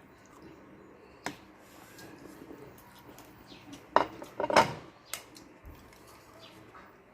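Spoon and dishes clinking during a meal: a single click, then a louder cluster of knocks about four seconds in and another click soon after.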